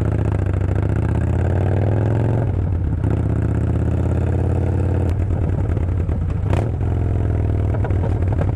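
Yamaha Bolt's air-cooled V-twin running with no muffler, the open exhaust loud, its engine note shifting a few times.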